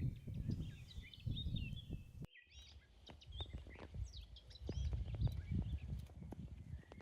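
Footsteps crunching through packed spring snow in uneven low bursts, with small birds chirping and twittering high above throughout.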